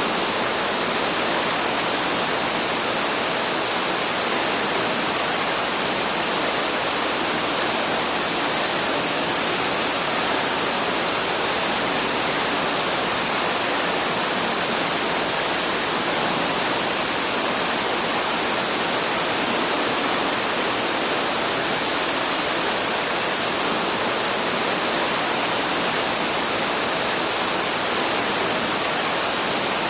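Waterfall rushing: a steady, even hiss of falling water with no change through the stretch.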